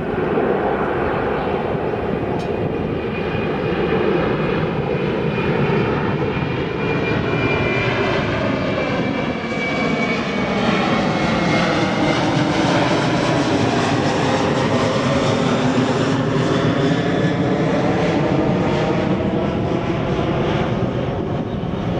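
Jet airliner passing close by on takeoff or landing: a loud, steady engine rush that comes up sharply at the start and holds, with a faint high whine that falls slightly in pitch.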